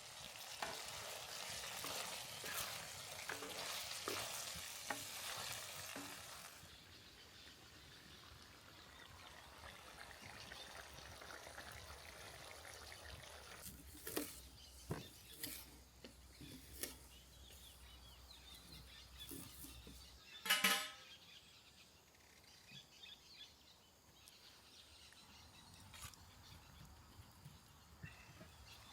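Food sizzling in a large skillet over a campfire for the first six seconds or so, then fading to a quieter background with scattered clicks and taps. About twenty seconds in comes one short, loud pitched sound.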